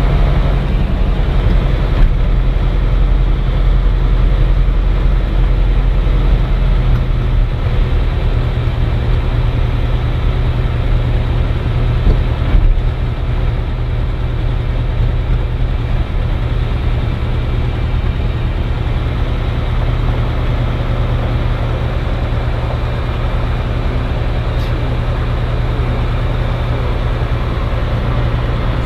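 Cirrus SR20's piston engine and propeller running steadily, heard from inside the cockpit as a loud, even drone; the drone eases slightly about halfway through.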